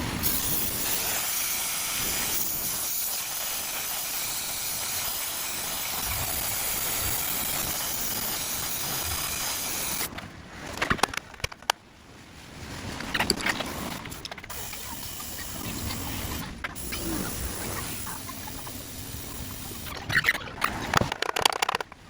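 Sped-up workshop sounds of a car muffler being replaced. A steady hiss for about the first ten seconds, then scattered sharp clinks and knocks of tools and metal.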